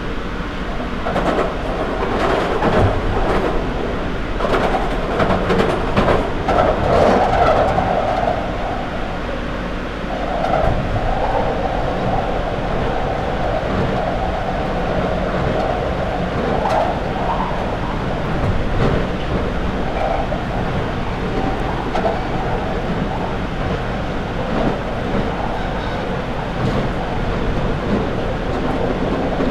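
London Underground 2009 Stock train running in tunnel, heard from on board: steady wheel and rail noise with the hum of the traction motors. A run of sharp clicks over the rails comes in the first several seconds.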